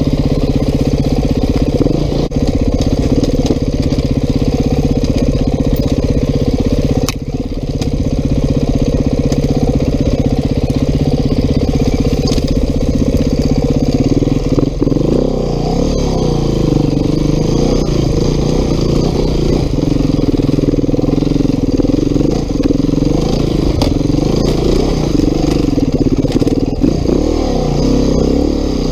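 Beta 390 RR-S single-cylinder four-stroke enduro bike running under way, held fairly steady at first, then revving up and down from about halfway through. A sharp knock about seven seconds in.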